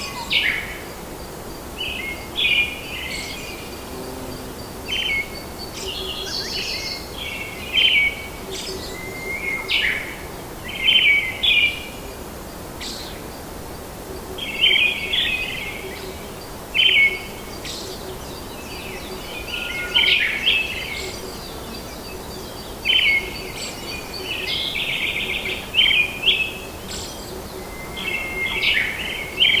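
Birds calling in a rainforest, short chirping phrases repeating every second or two, over a steady background hiss.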